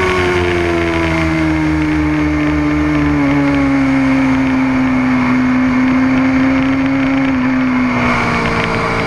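Motorcycle engine heard onboard under heavy wind noise, its revs easing slowly downward, with a shift in engine note near the end.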